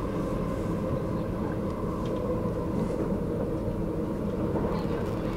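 Electric commuter train running along the line, heard from inside the carriage: a steady low rumble of wheels on the rails, with a few faint steady whines above it.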